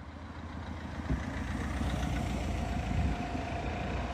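A car engine running at low speed as a car rolls slowly along, a steady low rumble that grows a little louder in the first second and then holds.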